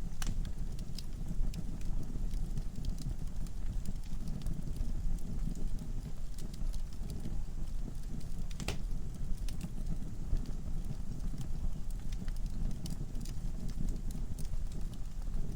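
Wood fire in a fireplace burning with a steady low rumble of flame and frequent sharp crackles and pops from the logs, one louder pop near the middle.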